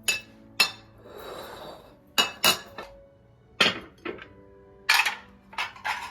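Dishes and cutlery being handled: a series of about nine sharp clinks and knocks at uneven intervals, with a short soft rustling or rushing sound about a second in.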